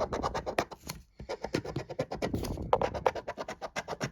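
Rapid back-and-forth scratching on a scratch-off lottery ticket, about seven or eight quick strokes a second, with a brief pause about a second in.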